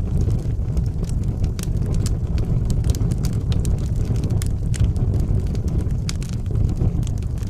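Wood fire burning in a fireplace: a steady low rumble of flames with frequent sharp crackles and pops scattered irregularly through it.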